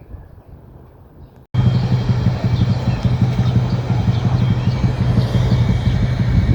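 Street traffic noise with a heavy engine hum. It starts abruptly about a second and a half in, after a quiet stretch, and then runs on loud and steady.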